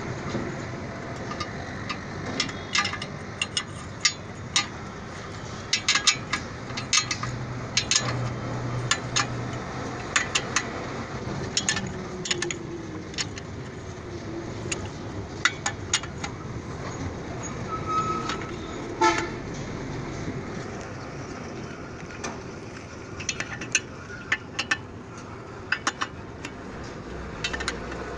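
Irregular sharp clinks and taps of hand tools on engine and clutch parts, over a steady hum of street traffic with a short horn toot about eighteen seconds in.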